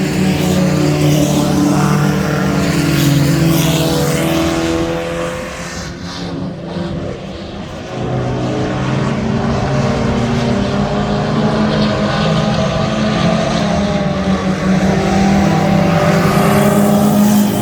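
Several mini truck engines running hard in a heat race, their pitches shifting as they rev and pass. The sound dips about six seconds in and builds back up about two seconds later.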